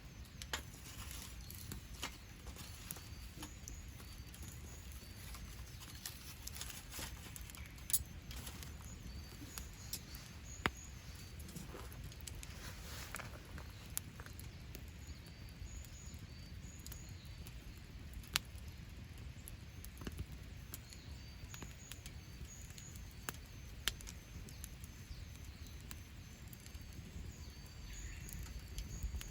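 Wood campfire burning with sparse sharp crackles and pops every few seconds over a low steady rumble. Faint high bird chirps repeat in the background.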